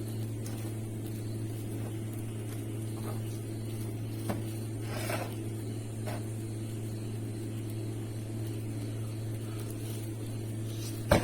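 A steady low mechanical hum, with a few faint clicks about halfway through and a sharper knock near the end.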